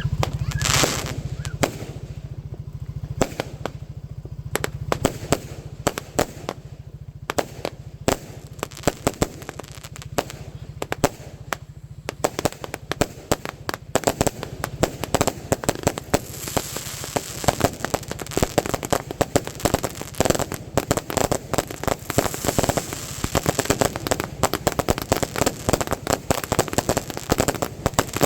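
Fireworks going off: a rapid, irregular string of sharp pops and crackles, with a bigger bang just under a second in, growing denser from about halfway through.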